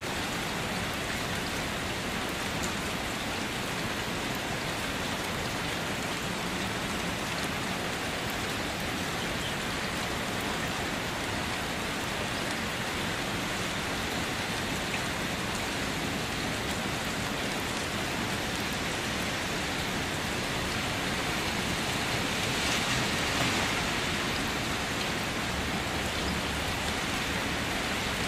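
Steady rain falling, an even dense hiss, growing a little louder about three-quarters of the way through.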